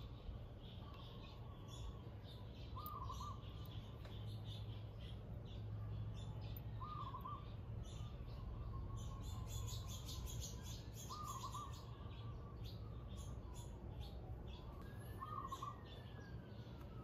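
A bird gives a short warbling call about every four seconds, while a distant siren slowly wails up and down in pitch.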